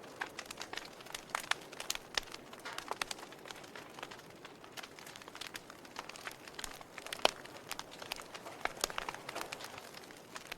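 Wood fire burning in a fireplace: irregular sharp crackles and pops over a soft steady hiss, with one louder pop about seven seconds in.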